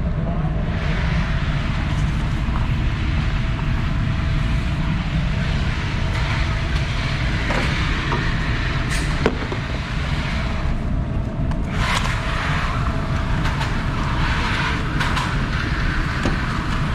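Steady low rumble and hiss of a vehicle driving.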